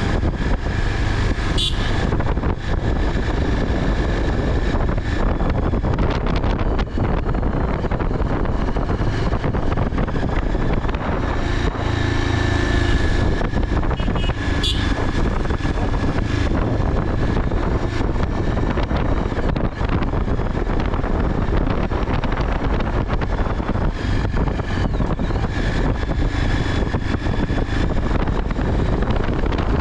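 Steady, unbroken rush of wind and road noise from a moving bike ridden at speed.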